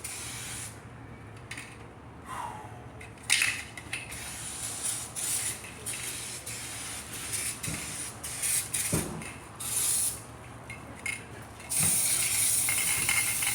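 Aerosol spray paint can spraying in a string of short hissing bursts, then a longer continuous spray near the end.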